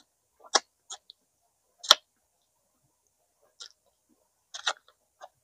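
Close-miked mukbang eating sounds: irregular sharp wet clicks and smacks of a mouth biting and chewing smoked chicken, the loudest about two seconds in.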